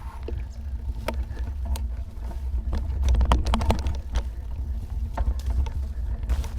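Riding noise picked up by a bike-mounted action camera: a steady low rumble of wind and road vibration, broken by frequent rattles and knocks as the bike goes over bumps, thickest about halfway through.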